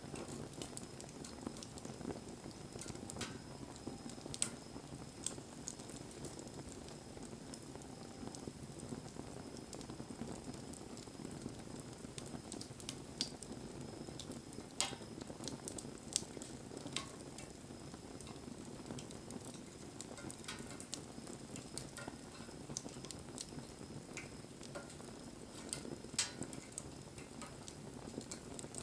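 Wood campfire burning: a steady low rush of flames with scattered sharp crackles and pops from the burning wood, a few of them louder snaps.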